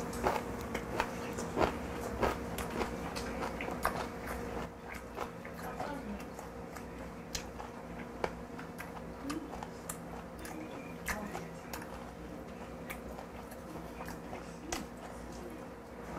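Close-miked chewing of a mouthful of fermented skate, with many short wet clicks and smacks of the mouth, over a steady low hum.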